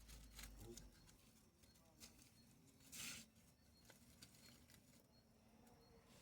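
Faint, near-silent crackle of a small outdoor bonfire, slow to catch because the wood is not dry: scattered soft ticks and pops, with one brief hiss about three seconds in.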